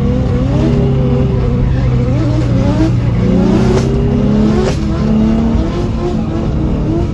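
Drift cars' engines revving on the track, several at once, their pitch rising and falling over a steady low engine drone.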